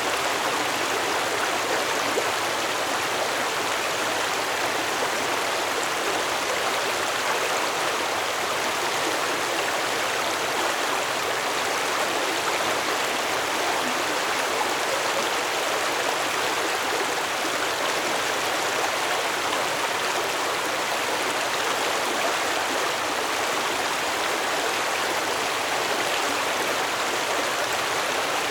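Stream water flowing, a steady, even rushing with no breaks or changes.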